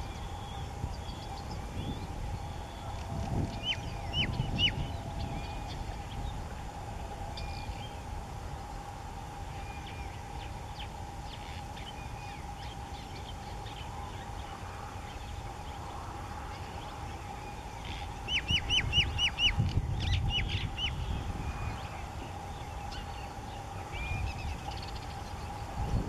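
Bird calls in open country: short falling chirps, a few scattered early on and a fast run of about six about three-quarters of the way through, over a steady hum and a low wind rumble.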